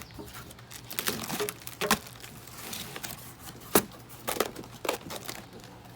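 Cardboard box and packaging being torn and pulled open: crinkling and tearing with irregular sharp snaps, the loudest about two-thirds of the way through.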